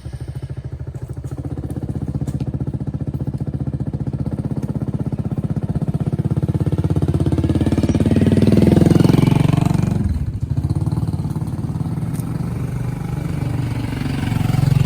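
Small motorbike engine running, growing louder over the first nine seconds, dipping briefly about ten seconds in, then running steadily.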